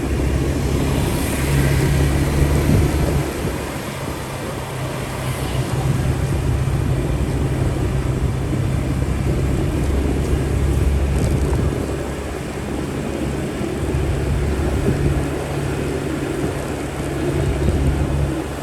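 Motorcycle engine running on the move: a low, steady rumble that swells and eases several times, under a constant rush of noise.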